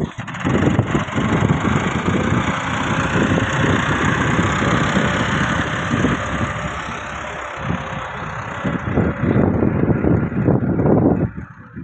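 Diesel tractor engine running steadily, with a loud, even hiss over it that fades away near the end.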